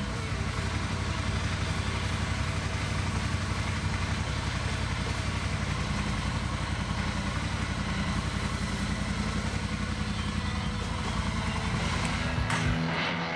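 2020 Triumph Speed Twin's 1200 cc parallel-twin engine running steadily at idle.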